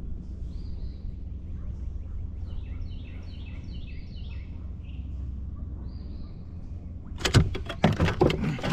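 Small birds singing in short repeated chirps over a steady low outdoor rumble, then about seven seconds in a loud burst of clattering knocks and rattles.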